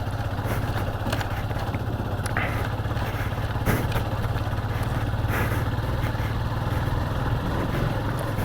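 Motorcycle engine running steadily at low speed on a rough dirt road, with a few sharp knocks and rattles.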